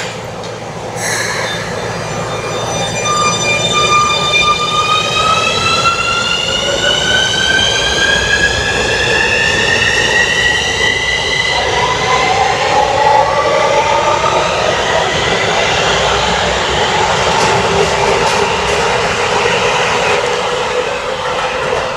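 Electric commuter train pulling away, its inverter-driven traction motors giving a whine that rises steadily in pitch as it accelerates. About halfway through, the rising whine breaks off and a lower whine takes over as the train keeps gaining speed over the rumble of the wheels on the rails.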